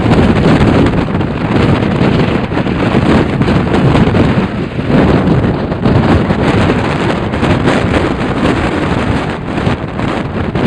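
Strong wind buffeting the microphone, a loud steady rumble that swells and eases with the gusts.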